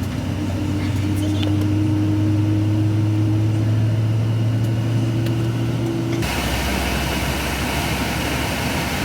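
Airliner cabin noise: the jet engines hum steadily with a slowly rising tone, then about six seconds in the sound changes suddenly to a broad, even rushing noise.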